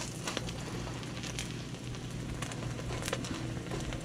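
Beyond Meat plant-based burger patty frying in hot oil in a wok, sizzling steadily with scattered small crackles and pops as a fork presses it down.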